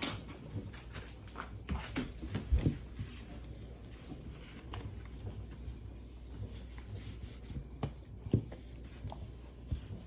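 Scattered light clicks and knocks of objects being handled, loudest in a cluster about two seconds in and in one sharp knock near the end, over a low steady hum.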